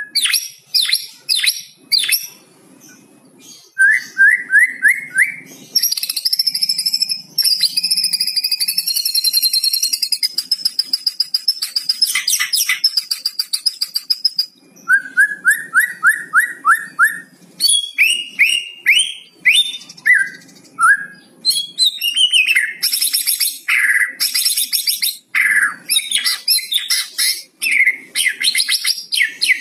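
White-rumped shama song: bursts of fast repeated rising notes, a long buzzy 'kretekan' rattle, and loud down-slurred whistles, delivered in quick succession.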